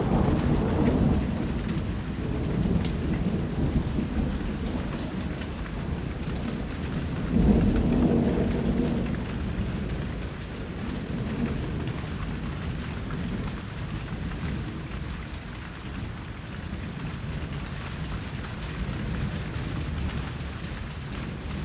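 Steady rain falling, with low rolling thunder: one rumble at the start and a louder one about seven and a half seconds in.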